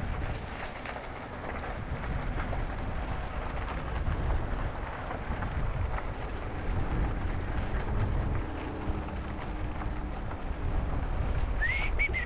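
Wind buffeting the microphone over the rumble of e-bike tyres rolling on a trail, with a faint hum midway and a few short high squeaks near the end.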